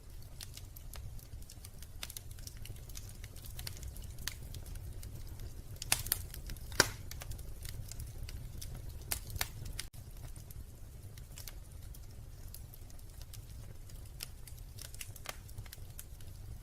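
Wood fire crackling in a fireplace: scattered sharp snaps and pops over a steady low rumble, with a few louder pops near the middle.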